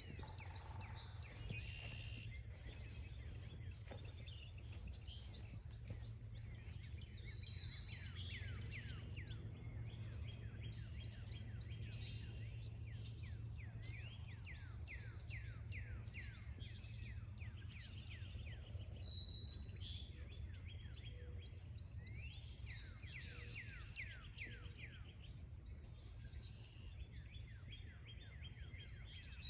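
Several wild songbirds singing and calling at once, many quick falling notes repeated in runs, over a steady low rumble.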